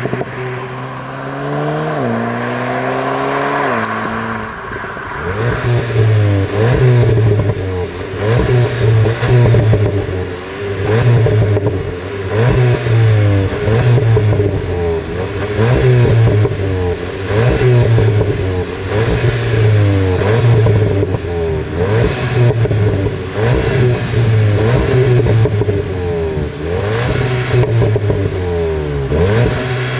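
2019 VW Golf GTI TCR's turbocharged 2.0-litre four-cylinder engine and exhaust. It first climbs in pitch with two quick drops like gear changes in the first few seconds, then revs up and falls back over and over, about once a second.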